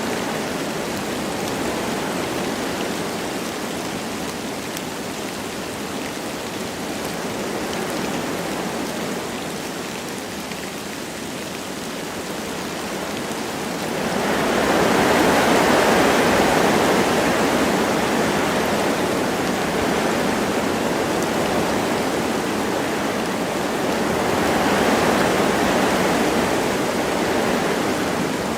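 Wind rushing through forest trees with light rain falling, a steady noise that swells louder in gusts about halfway through and again near the end.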